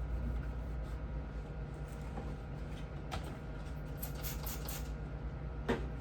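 Light handling noises from cleaning: a click, a few short crisp rustles or scrapes, and a sharp knock near the end, over a steady low hum.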